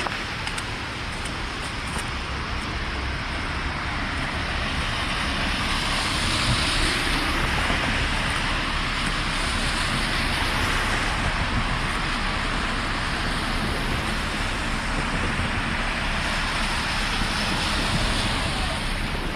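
Steady city street traffic noise: cars passing on a snow-covered, unplowed street, their tyres hissing through the snow and slush.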